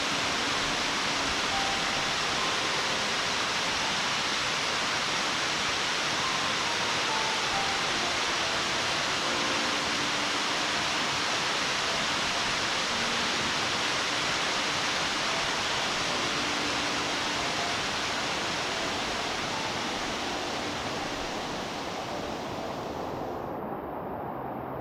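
Waterfall pouring steadily, a loud, even rushing roar of falling water; the higher part of the rush cuts off suddenly about a second before the end.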